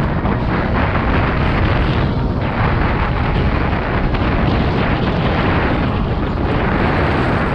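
Loud, steady wind rushing and buffeting over the microphone of a camera carried on a moving bike.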